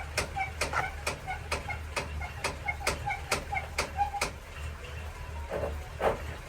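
1948 Ford V8 Pilot's flathead V8 idling low, with a run of sharp, regular clicks, about two a second, that stop a little past four seconds in.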